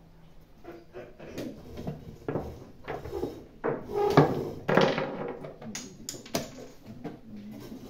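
Irregular sharp clicks and knocks of blitz chess play: pieces set down on boards and chess clock buttons pressed.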